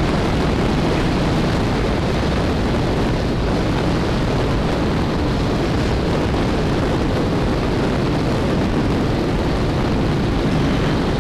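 Royal Enfield single-cylinder motorcycle running steadily at about 45 mph, its engine mixed into heavy, even wind rush on a helmet-mounted camera.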